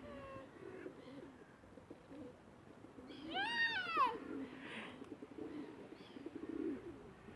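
A flock of birds being hand-fed, giving low warbling calls throughout, with one short, louder high cry that rises and then falls a little over three seconds in.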